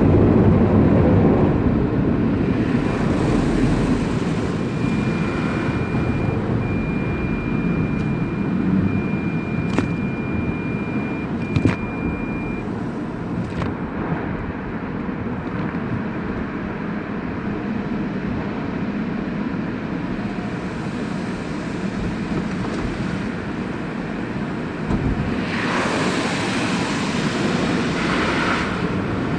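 Automatic car wash equipment running with a steady rushing noise. A thin high tone sounds in several short stretches a few seconds in, and a brighter hiss of spray or air swells near the end.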